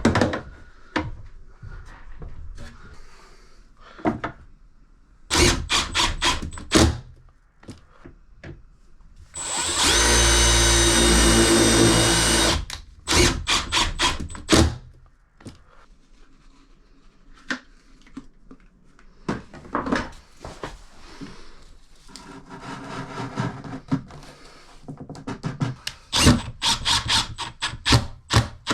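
A power drill runs steadily for about three seconds near the middle, set among scattered sharp knocks and clicks of tool work.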